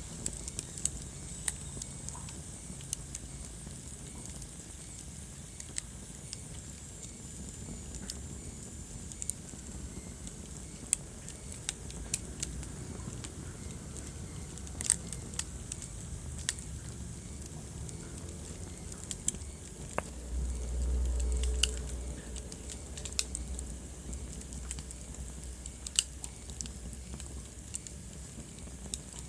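Wood fire crackling in a fireplace: irregular sharp pops and snaps over a steady low rumble of flames, with a brief louder low rush about twenty seconds in.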